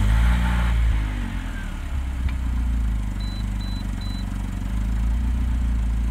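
Car engine idling steadily just after starting, with a somewhat heavy-sounding note, as the owner feels it. Three short high beeps sound about three seconds in.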